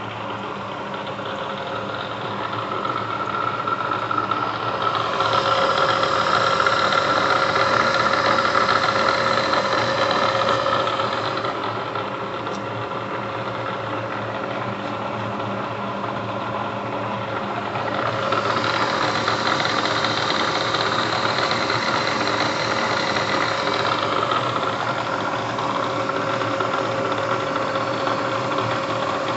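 1.5 HP Bridgeport Series I vertical milling machine running under power, a steady mechanical hum and whine. It grows louder for a stretch about five seconds in, eases off near eleven seconds, and swells again from about eighteen seconds.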